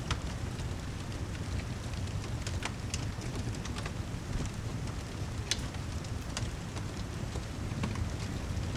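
Steady heavy rain with a low rumble, layered with a crackling fireplace whose sharp pops come scattered and irregular.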